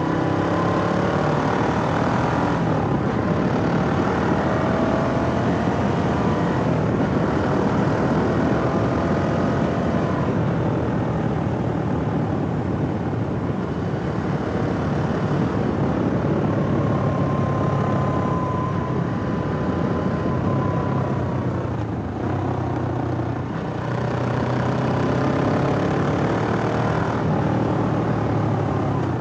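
Suzuki GS500E's air-cooled parallel-twin engine running under way. The revs climb and then drop sharply twice, in the first three seconds and again about three-quarters through, as the gears are changed.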